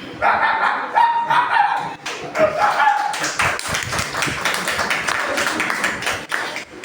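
Children's voices imitating a dog barking, repeated bow-wow calls, with a fast run of sharp taps or claps through the second half.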